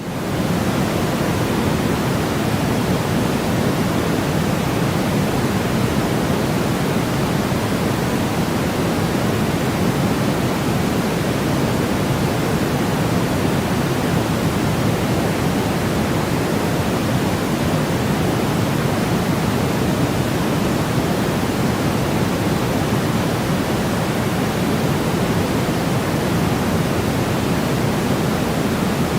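Steady sleep-aid noise for a baby: an even, unchanging hiss, heavier in the lower pitches, like pink noise.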